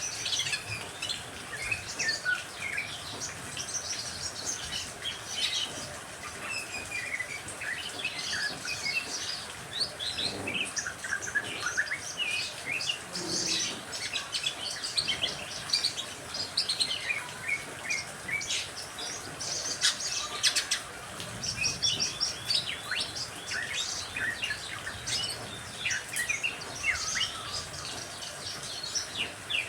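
Mixed songbirds, among them canaries, greater green leafbirds and lovebirds, chirping and trilling continuously, many short overlapping calls, over a steady background hiss.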